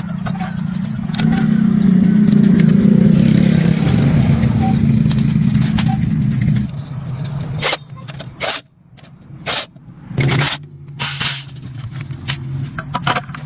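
Restored water pump running with a steady low hum that grows louder about a second in and drops away about seven seconds in. Several short, loud bursts of noise follow, then the low hum returns more quietly.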